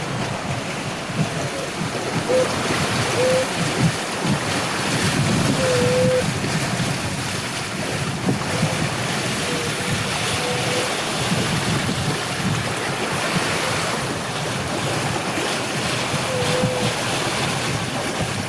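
Sea and wind aboard a sailboat under way offshore: a steady rush of water along the hull with wind buffeting the microphone, and a few faint short squeaks.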